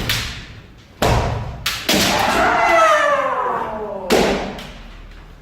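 Kendo sparring: four sharp impacts of bamboo shinai strikes and stamping feet on a hall floor, with a long drawn-out kiai shout, falling in pitch, from about two seconds in to about four seconds.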